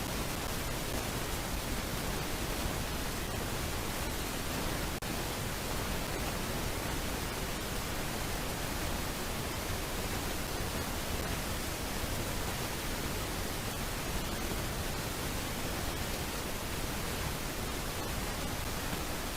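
Steady, even hiss with no calls or other distinct sounds.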